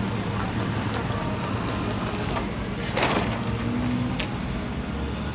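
Car engines running steadily, with a brief louder swell about three seconds in.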